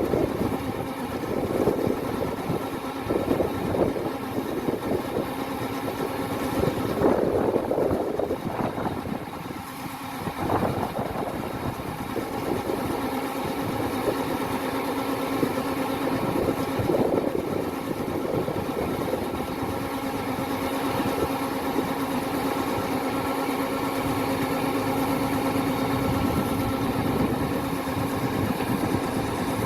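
Kubota DC-105X combine harvester's diesel engine running, uneven with louder stretches during the first ten seconds or so, then settling into a steady hum.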